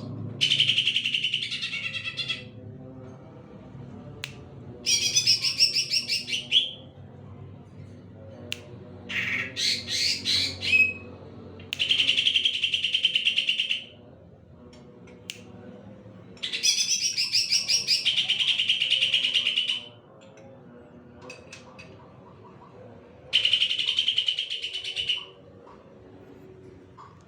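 Green leafbird (cucak ijo) singing in six bouts of about two seconds each, every bout a rapid run of high, repeated notes, with short pauses between bouts.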